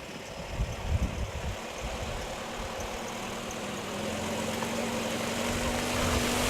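Lada Niva 2329 pickup engine running with an uneven low rumble; about two-thirds of the way in a steady drone comes up and the sound slowly grows louder, as when the engine is pulling harder.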